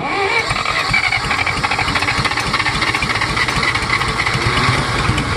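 1964 John Deere 1010 tractor's four-cylinder engine fires suddenly on a shot of starting fluid during a cold start and keeps running, loud and uneven.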